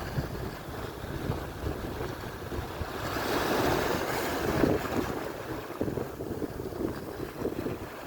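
Atlantic surf breaking and washing on the shore, with wind buffeting the microphone. A wave rushes in, louder, about three seconds in and fades by about five seconds.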